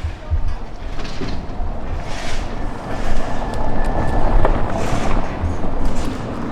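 Street ambience with wind buffeting the microphone in gusts, a heavy uneven rumble. A brief thin tone sounds midway, followed by a sharp click.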